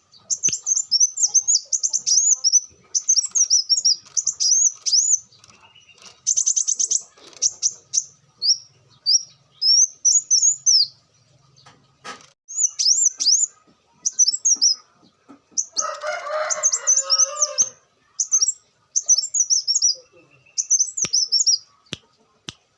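Kolibri wulung sunbird singing a rapid, high-pitched chattering song in quick bursts of sharp twittering notes, with a dense buzzy trill about six seconds in. A harsher, lower sound runs under the song for about two seconds past the middle.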